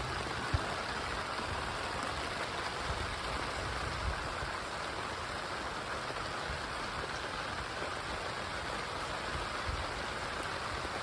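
Steady rain falling, an even hiss throughout, with one sharp tap about half a second in.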